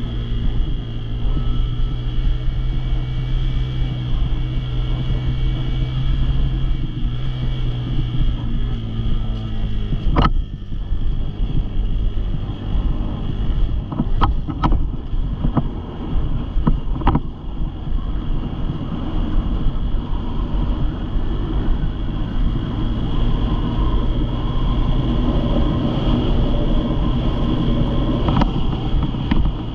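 Small dirt bike engine running steadily, with a few sharp clicks or knocks about ten seconds in and again a few seconds later.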